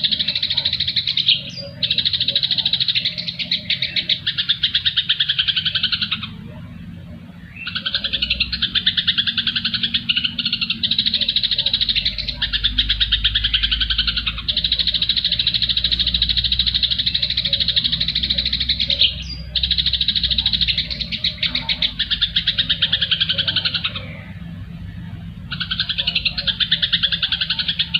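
Songbird chattering in dense, rapid, buzzy bouts several seconds long, with two short pauses.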